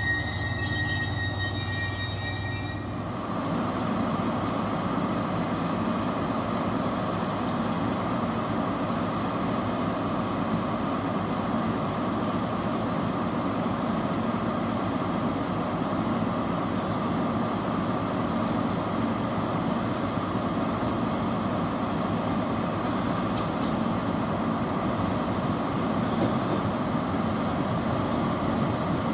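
A train running on rails, with a steady rolling noise. High, thin squealing tones are heard for the first three seconds or so and then stop abruptly.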